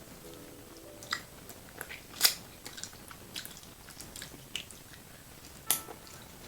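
Close-miked eating of a seafood boil: bites and chewing with sharp crunches and clicks, the loudest about two seconds in and again near the end.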